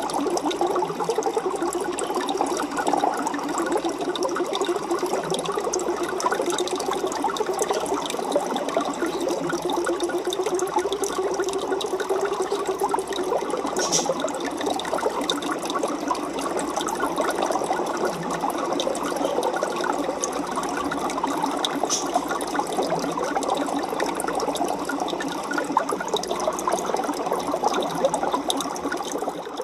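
Aquarium water bubbling and trickling steadily, with two faint clicks in the middle.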